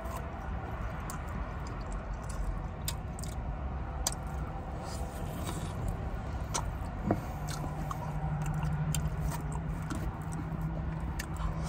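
Close-up chewing and biting of a sauced chicken wing, with wet mouth clicks and lip smacks scattered throughout over a low steady rumble. A steady low hum comes in a little past halfway and holds to the end.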